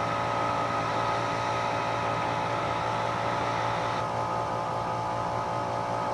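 Heat gun running steadily, its fan motor whining over a blowing hiss, as it heats a pinion bearing for an interference fit. The hiss drops slightly about four seconds in.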